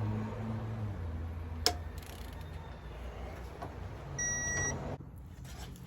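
A single short electronic beep, lasting about half a second and starting about four seconds in, after a sharp click a little under two seconds in, over a low steady hum that drops in level about a second in.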